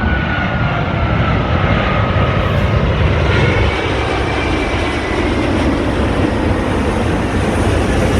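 Jet engines of a four-engine Airbus A380 running loud and steady as it comes in to land, with a faint high whine that slowly shifts in pitch.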